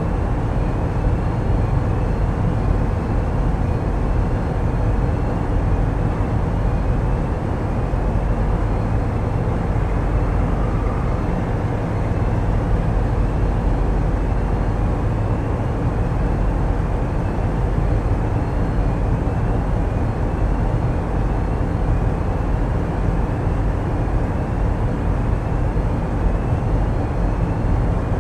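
Tugboat's diesel engines running steadily, a constant low drone heard from on board, with a faint short high chirp repeating about once a second.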